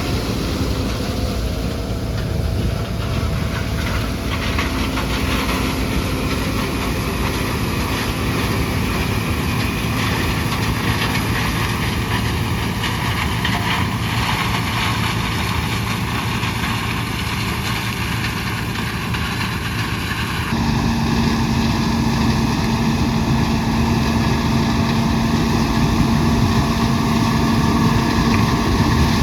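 John Deere 6600 combine running steadily while harvesting corn. About two-thirds of the way through, the sound changes abruptly to a louder run with a steady hum.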